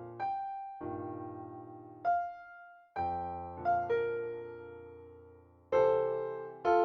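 Electronic keyboard with a piano sound playing a melody slowly, one note about every second, each struck and left to fade.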